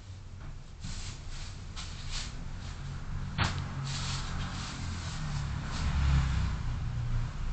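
Car driving noise picked up by a dashcam inside the car: a low rumble of engine and tyres that rises and falls, with one sharp click about three and a half seconds in.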